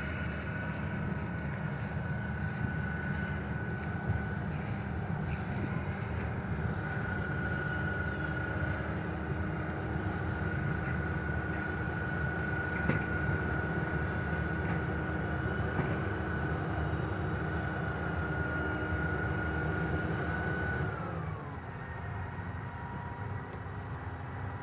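Harvest machinery engine running steadily with a high whine; near the end the whine slides down in pitch and the sound gets quieter as the machine slows.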